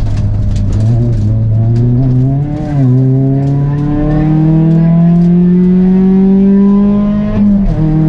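Peugeot 206 RC Group A rally car's four-cylinder engine heard from inside the cabin, pulling hard: the revs climb, dip briefly about two and a half seconds in, then rise steadily for several seconds before falling away near the end.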